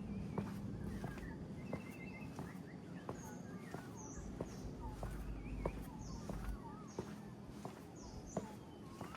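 Footsteps walking at an even pace, about two steps a second, while birds chirp and whistle around them, over a steady low background rumble.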